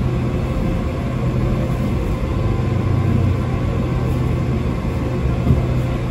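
Steady low rumble and hum of the 485-series train moving slowly, heard from inside the carriage.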